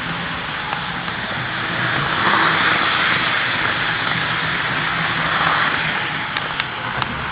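HO scale model diesel locomotive running along the track: a steady rattling rush of wheels and motor that swells and fades twice as the train passes close, with a few light clicks near the end.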